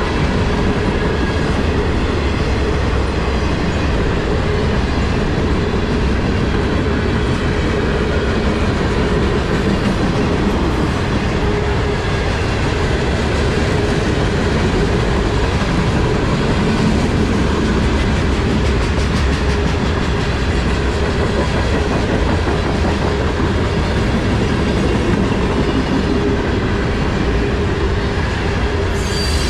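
Freight cars of a CSX manifest train rolling past close by: a steady, loud rumble and clatter of steel wheels on the rails, with a steady hum over it.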